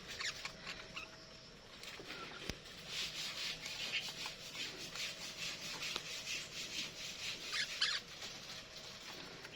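Budgerigars chattering, a steady run of quick, high chirps and squeaks.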